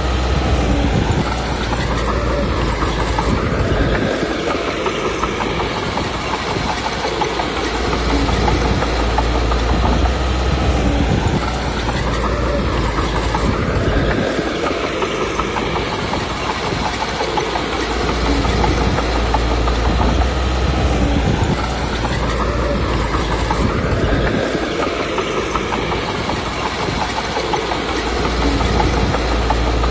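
Komatsu D21P crawler bulldozer's diesel engine running with steel tracks clattering. The deep rumble eases off and comes back in a cycle roughly every ten seconds.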